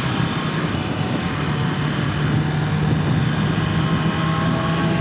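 BMW S1000RR's inline-four engine running at a steady speed on its stock exhaust with catalytic converters still fitted, with steady wind rush over the helmet.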